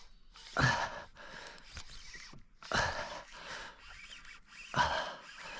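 A person breathing hard in short heavy breaths, about four of them roughly two seconds apart, while fighting a hooked fish.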